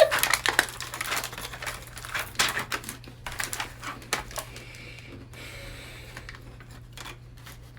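Plastic Lunchables packaging crinkling and crackling as it is torn open and handled, a fast run of clicks that is densest in the first few seconds and then thins out.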